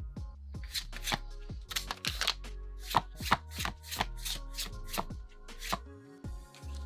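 Pokémon trading cards being handled one after another, a quick run of sharp card snaps and taps, about two to three a second, over steady background music.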